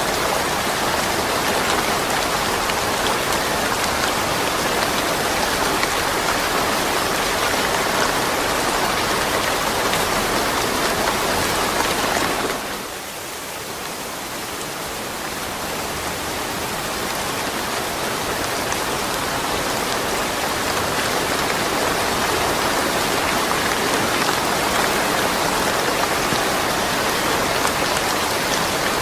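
Steady rain falling without thunder. A little under halfway through it suddenly drops in level, then slowly builds back up over several seconds.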